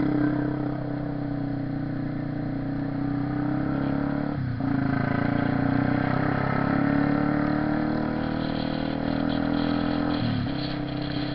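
Honda CB 300R's single-cylinder engine running steadily under way. Its pitch dips briefly twice, about four and a half seconds in and near the end, typical of gear changes.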